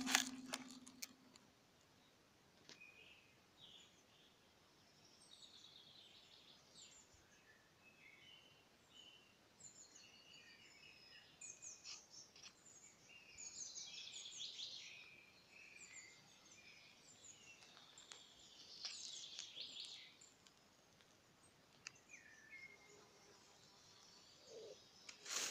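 Faint songbirds chirping and singing in short, scattered phrases, busiest a little before halfway and again around three quarters of the way through.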